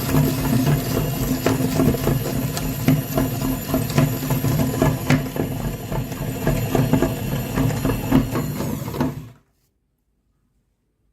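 A small motor whirring steadily with rapid clicking, cutting off suddenly about nine seconds in.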